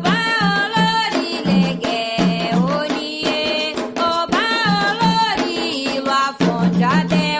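Afro-Brazilian Candomblé/Umbanda song: a sung melody over a steady rhythm of hand drums and percussion.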